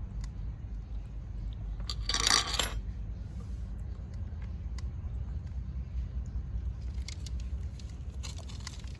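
A brief, loud clatter about two seconds in, then scattered light clicks and taps that grow busier near the end, over a steady low hum.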